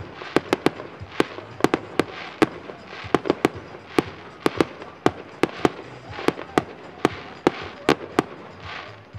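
Fireworks display: a rapid, irregular series of sharp bangs, about two to three a second, from aerial shells bursting, with hissing between the reports.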